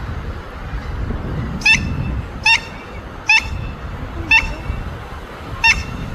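An animal calling five times, each a short, high-pitched cry about a second apart, over a steady low rumble like wind.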